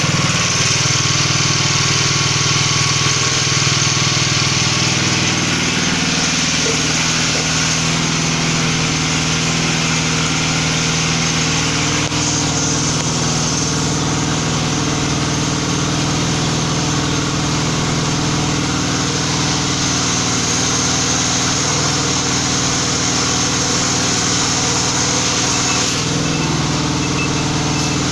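A 700-bar hydraulic pump's motor running steadily. Its note changes about six seconds in and changes back near the end.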